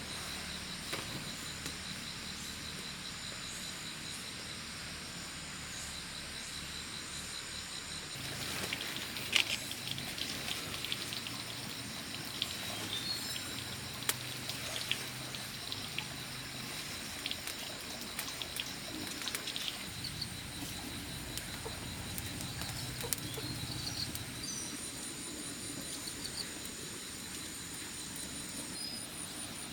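Insects trilling steadily in a high, pulsing chorus, with scattered small clicks and knocks of handling in the middle part.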